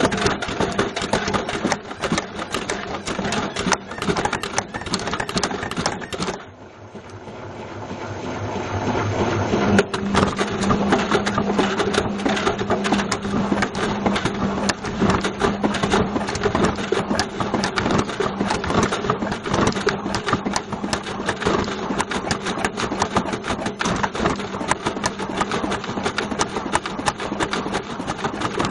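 Washing machine drum turning with a Bush VCR807 video recorder inside: the recorder rattles and clatters loosely against the drum, over a steady motor hum. About six seconds in, the drum stops and the noise dies down, then it builds back up as the drum turns again.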